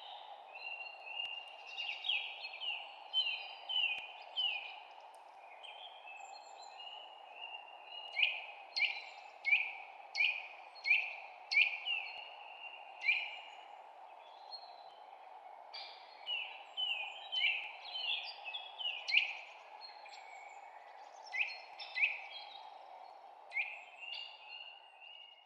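Small songbirds chirping: many short, sharp notes that fall quickly in pitch, coming in quick runs with brief pauses between, over a steady background hiss.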